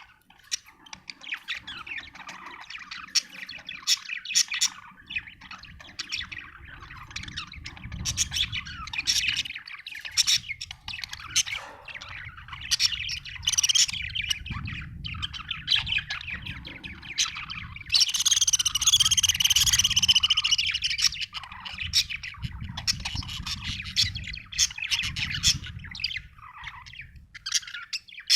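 Budgerigar chirping and chattering continuously in quick, busy warbles, with a louder, denser burst of chatter about two-thirds of the way through.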